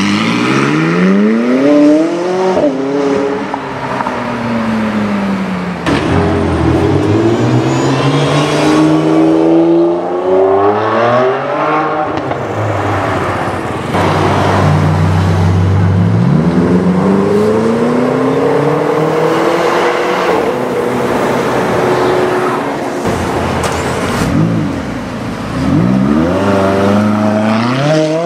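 Several supercars accelerating hard past the roadside, one after another, each engine rising in pitch through the revs with drops at the gear changes. It opens with a McLaren 675LT Spider's twin-turbo V8 pulling away, and another McLaren V8 pulls away near the end.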